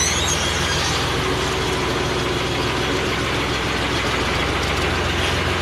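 Tractor engine running steadily at idle, an even low chugging.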